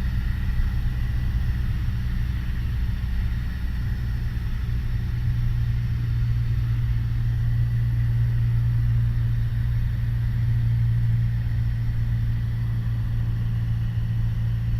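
Piper Warrior's four-cylinder Lycoming piston engine and propeller droning steadily at cruise power, heard from inside the cockpit, swelling slightly about halfway through.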